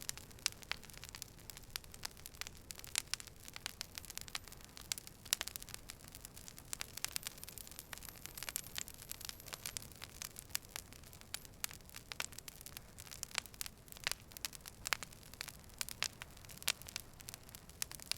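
Wood fire crackling: many irregular sharp pops and snaps over a low, steady hiss.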